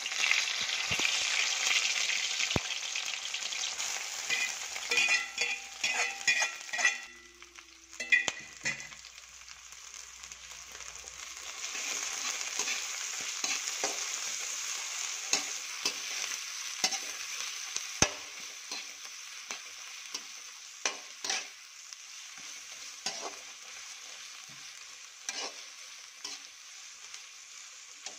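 Chopped onion, tomato and green chillies sizzling in hot oil in a metal kadai, stirred with a metal spatula that clicks and scrapes against the pan. The sizzle is loudest at first, drops for a few seconds about a quarter of the way in, picks up again and slowly fades.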